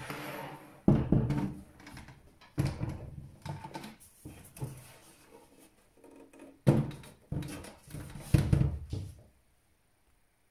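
Metal side panel of a desktop PC case being fitted back on: a series of knocks and scraping clatters as it is handled, slid and seated, stopping about nine seconds in.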